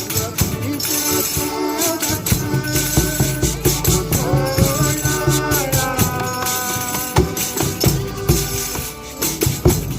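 Folia de Reis music: tambourines jingling and shaking in a steady rhythm, with a held melody of voices or instruments coming in over them in the middle.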